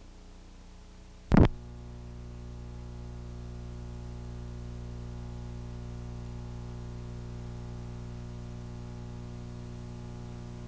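A single loud click about a second and a half in, then a steady electrical hum with a stack of overtones that holds to the end, like mains hum on the recording equipment.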